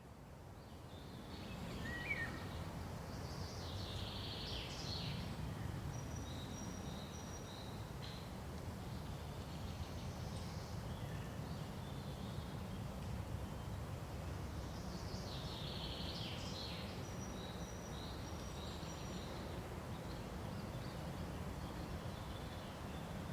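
Forest ambience fading in over the first two seconds: a steady low rustle of wind in pine trees, with scattered bird chirps and short high calls coming and going.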